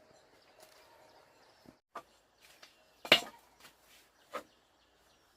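A few scattered sharp knocks, the loudest about three seconds in, over faint bird calls.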